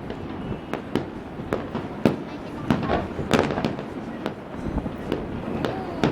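Aerial fireworks bursting: an irregular run of sharp bangs, roughly one a second, over a steady background of crackle and rumble.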